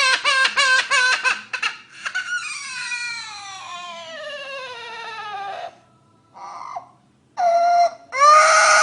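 A bird imitating a crying baby: a quick run of sobbing cries, then a long wail that falls steadily in pitch, a short cry, and a loud wail near the end.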